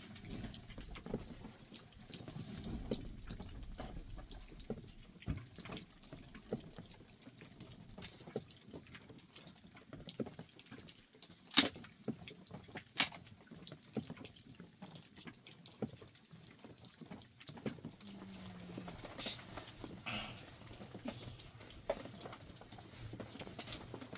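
Water dripping irregularly, with scattered small clicks and ticks; about halfway through, two sharp, louder clicks come a second or so apart.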